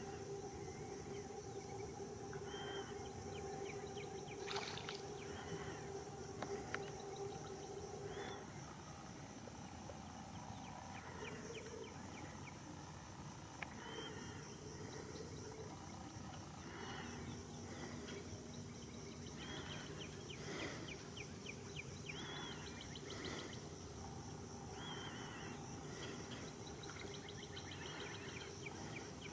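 Wetland nature ambience: scattered bird calls and chirps over a steady high insect hum. A low steady hum sounds under them and stops about eight seconds in.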